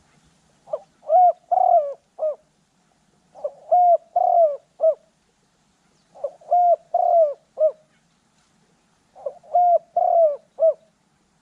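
Spotted dove cooing: four phrases about three seconds apart, each a quick run of four or five coos.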